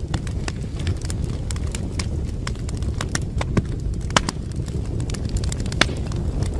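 Wood fire burning in a fireplace: a steady low rumble of flames with irregular crackles and sharp pops from the burning logs. The loudest pops come about midway and near the end.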